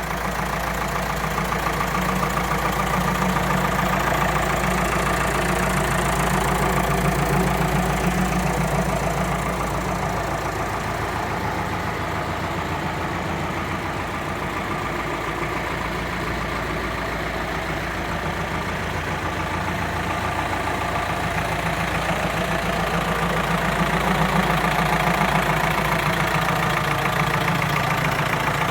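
David Brown 996 tractor's four-cylinder diesel engine idling steadily, its level swelling and easing back a couple of times.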